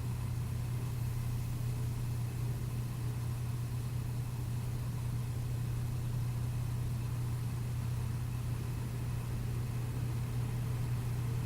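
A steady low mechanical hum, even and unchanging, like an idling engine or a running motor.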